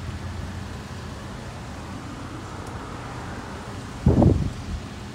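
Steady low hum of an idling car engine, with one dull thump about four seconds in.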